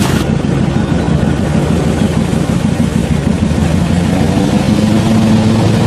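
Off-road 4x4's engine running loud and steady under load as the vehicle crawls forward, its pitch rising slightly near the end.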